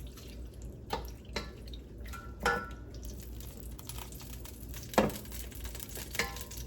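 Kitchen clatter at the stove: a few sharp knocks and clinks of utensils against pans, one with a brief ringing tone and the loudest about five seconds in. Under it is a faint crackle and hiss of hot frying grease in a pan.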